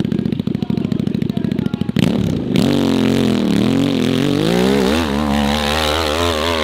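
Dirt bike engine: low-rev popping for about two seconds, then revving up and running at high revs, its pitch rising and falling repeatedly as the throttle is worked.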